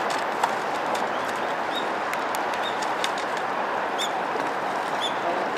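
A small bird chirping, short high call notes repeated about five times, over a steady outdoor hiss.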